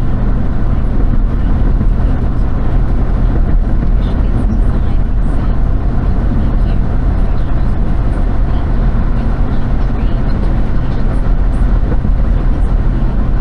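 Steady low rumble of a vehicle running, even and unbroken throughout.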